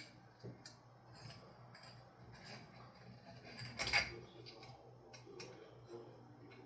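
Light clinks and clicks from handling a ceiling fan light kit's glass shades and metal fittings, with one louder clatter about four seconds in, over a faint steady low hum.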